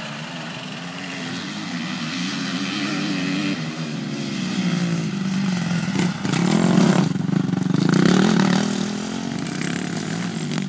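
Motocross motorcycle engine revving up and down as it is ridden, loudest about seven to eight seconds in.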